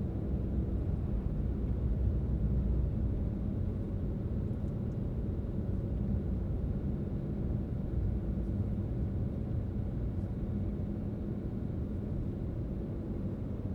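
Car driving on a road: a steady low rumble of engine and tyre noise with a faint hum.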